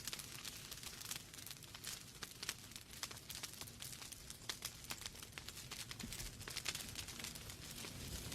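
Wood fire in a fireplace crackling, with many irregular sharp pops and snaps from burning logs over a soft hiss.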